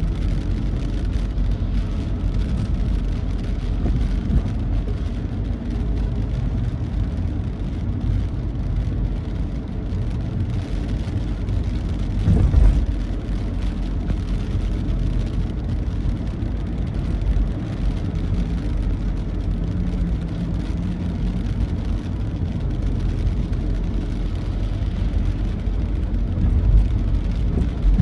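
Steady low rumble of a vehicle driving on a rain-wet road, with a brief louder bump about halfway through.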